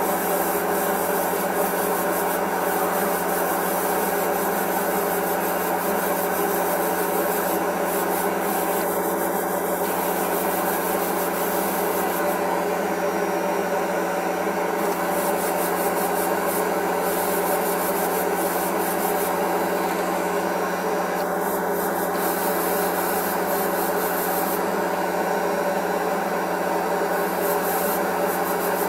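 Airbrush rig running steadily: a compressor hum under the hiss of air from the airbrush spraying thinned putty, the hiss swelling and easing every few seconds.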